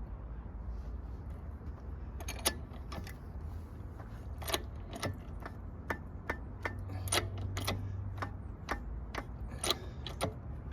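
Ratchet wrench clicking as it works the screw of a gear puller, sharp clicks roughly two a second, over a low steady hum. The puller is not shifting the stuck part.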